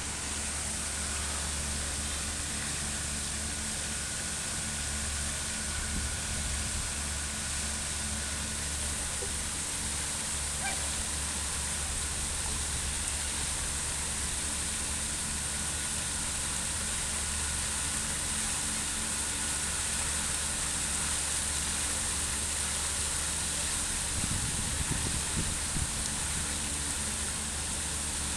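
Fountain water splashing in a steady, unbroken rush, with a low rumble underneath.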